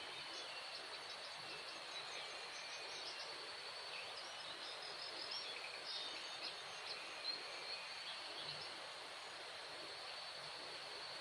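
Forest ambience after rain: a steady insect drone with one high constant tone, and many short bird chirps and calls scattered throughout.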